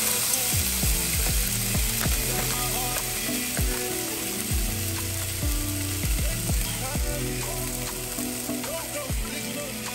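Frozen corn kernels with bits of ice poured from a bag into a pot of hot melted butter, the kernels clattering into the pan and the butter sizzling and frying steadily.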